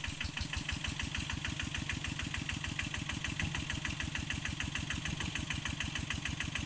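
A vehicle engine running steadily with an even, rapid beat.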